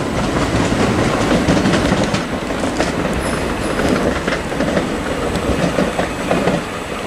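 Class 375 Electrostar electric multiple unit pulling away, its wheels clattering over the points and rail joints in a steady run of clicks.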